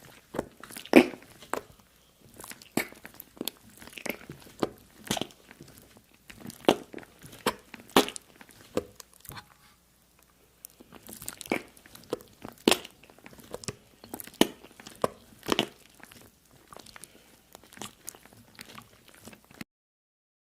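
Close-miked crunching: irregular sharp crunches and clicks, several a second, with short pauses. There is a longer lull about halfway through, and the sound cuts off abruptly just before the end.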